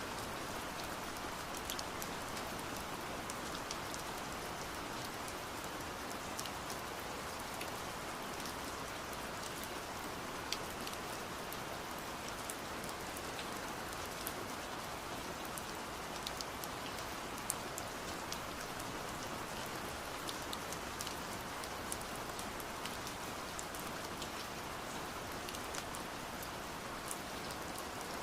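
Steady rain, a constant hiss with scattered sharp drops tapping, as of rain against window glass.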